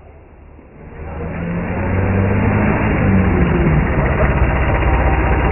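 A motor vehicle's engine comes up loud about a second in and keeps running steadily.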